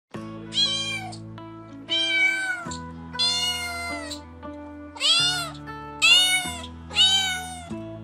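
A kitten meowing six times in a row. Each meow is high-pitched, under a second long, and rises then falls in pitch, over background music of held chords.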